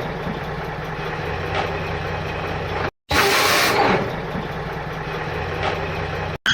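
Truck engine idling steadily with a low hum. About three seconds in, the sound cuts out briefly, then resumes with a loud hiss lasting about a second before the idling carries on.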